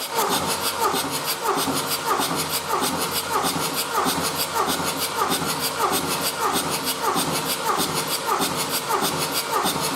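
Mercedes-Benz OM646 2.2 CDI four-cylinder diesel engine running on a test stand, a steady rhythmic diesel clatter.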